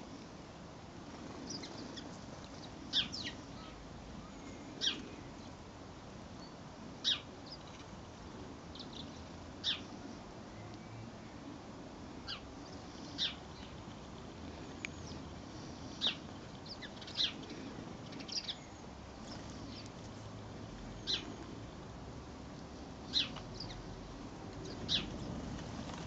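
A small bird giving short, sharp high chirps, one every second or two, over a low steady background rumble.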